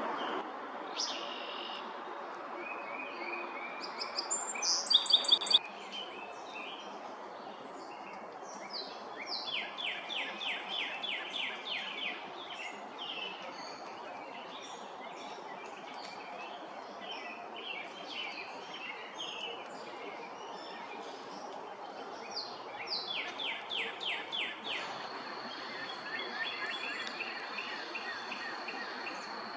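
Several wild birds calling and singing over a steady outdoor hiss. There are rapid trills twice, and a loud burst of sharp, repeated calls about five seconds in. A thin steady high whine joins near the end.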